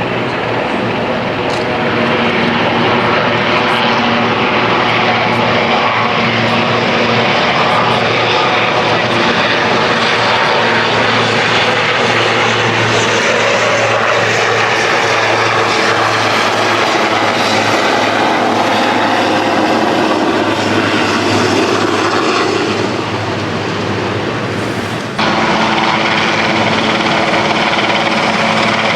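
Large helicopters of the Marine One flight, rotors and turbine engines running loudly and steadily overhead. The sound dips and then jumps back abruptly about 25 seconds in.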